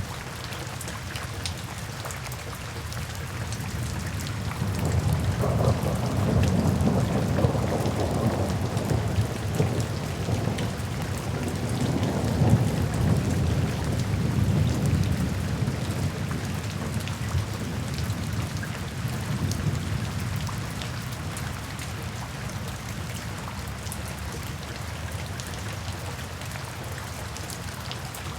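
Steady rainfall with many individual drops ticking, and a long roll of thunder that swells about four seconds in, peaks twice and dies away over the next fifteen seconds or so.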